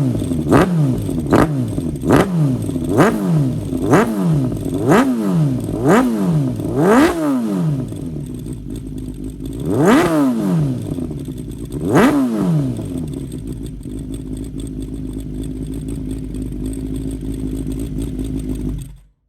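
Honda CBX550F inline-four, bored out to 740 cc, running through a one-off titanium exhaust: a string of quick throttle blips about one a second, then two more blips a couple of seconds apart, settling into a steady idle.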